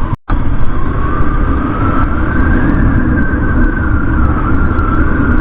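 Motorcycle on the move: heavy wind rumble on the rider's microphone over the engine, with a whine that slowly climbs in pitch in the first few seconds. The sound cuts out for a split second near the start.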